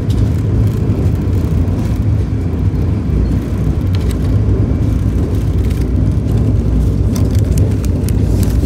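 Steady low rumble of a Vande Bharat Express electric train running at speed, heard from inside the passenger coach, with a few faint clicks over it.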